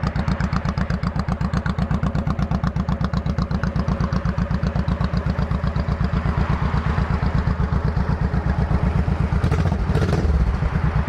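Honda Shadow V-twin running with aftermarket Cobra long-shot style exhaust, an even, steady pulsing beat at idle.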